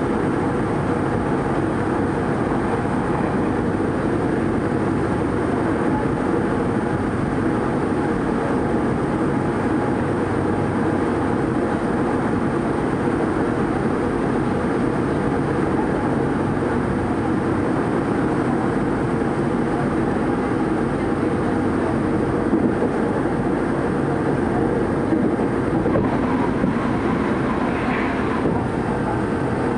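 Steady running noise inside a Tokyo Metro 03 series electric train (4-quadrant chopper control): wheels on rail with a constant rumble and a faint steady hum. Near the end a train passes close by on the adjacent track, adding a brief rush.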